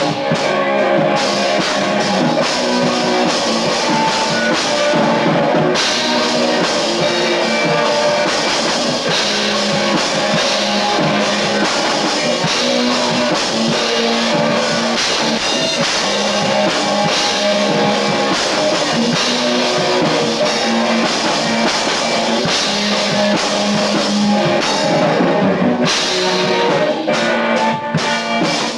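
A small rock band playing live on a lo-fi demo recording: a drum kit and guitar, loud and continuous.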